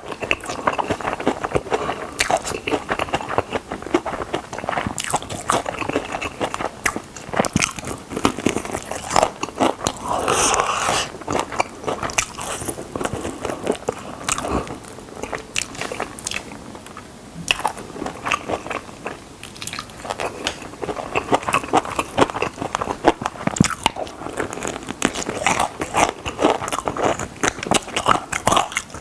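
Crunching bites and chewing of chicken drumsticks, with dense, irregular crackles and crunches and a short lull about two-thirds of the way through.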